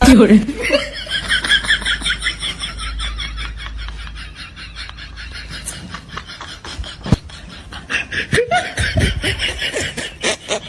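High-pitched laughter: a fast run of laughing that fades away over the first few seconds, with a few more short bursts of laughter near the end.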